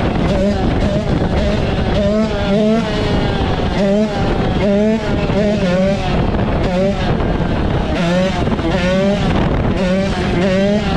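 Motorcycle engines running and revving, their pitch rising and falling over and over.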